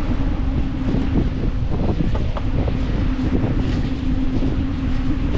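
Wind buffeting the microphone of a camera on a moving bicycle, a steady rushing rumble with a constant low hum underneath.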